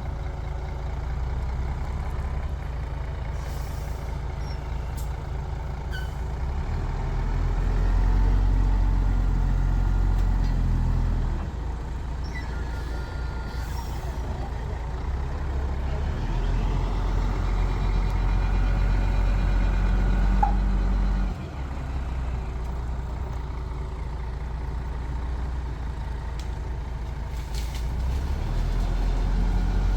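Heavy diesel machinery working: the deep rumble of an excavator and dump truck engines, swelling under load three times and dropping back between.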